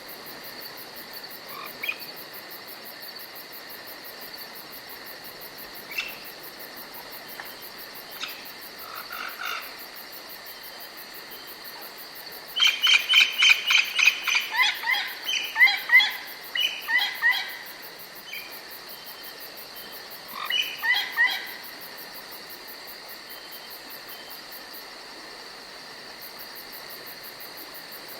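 Night-time nature ambience: a steady high insect trill, like crickets, runs underneath. About halfway through comes a bout of rapid, repeated short calls from frogs or birds, with a shorter bout a few seconds later.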